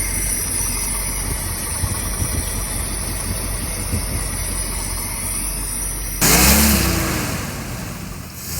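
1960 Cadillac hearse's 390 V8 running steadily on one of its first runs after sitting 32 years. About six seconds in the sound turns suddenly louder, with a brief rev that rises and falls away.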